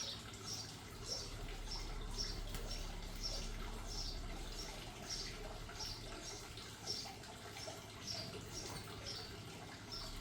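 A small bird chirping, a short high note repeated evenly about twice a second.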